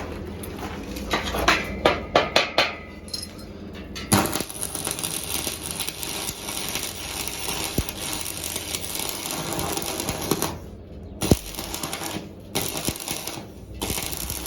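A few sharp clicks, then electric arc welding with a steady crackling hiss for several seconds, breaking into short bursts near the end as the steel frame is tack-welded.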